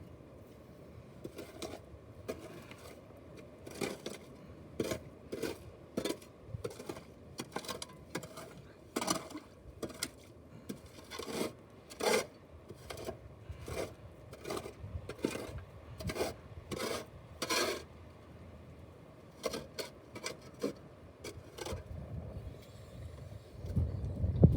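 Footsteps crunching and scraping on the ground, about one to two a second. They pause briefly about three-quarters of the way through, then a few more follow.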